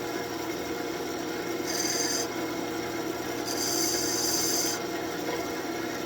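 Wood lathe spinning a birch workpiece while a graver cuts it, a steady rubbing hiss of tool on wood. Two louder, higher scraping passes stand out: a short one about two seconds in and a longer one from about three and a half to nearly five seconds.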